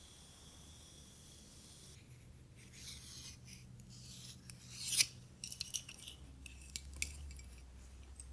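Scratchy rubbing of a tool through hair, starting faint and growing into stroke after stroke about two and a half seconds in, with a sharp crackle about five seconds in and a scatter of small clicks after it.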